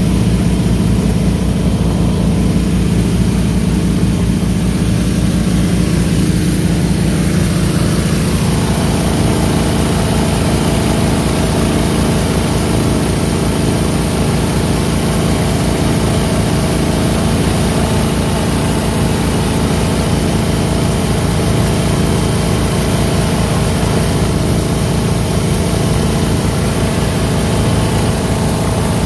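Twin 23 hp Go Devil mud motors running steadily, with a fast, even engine pulse. About eight seconds in, the sound grows fuller in its middle range.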